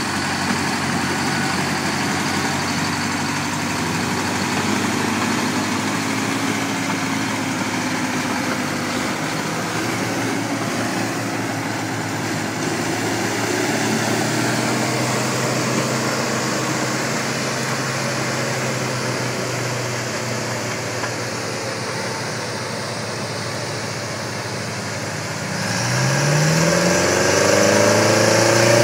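Diesel engines of heavy earthmoving machinery running steadily, with one engine revving up about three seconds before the end.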